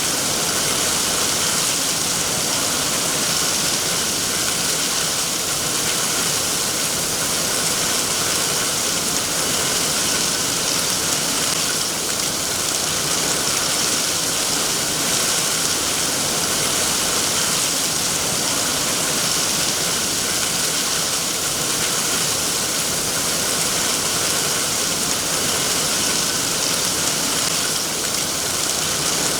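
Steady rainfall, an even hiss with no breaks or single drops standing out.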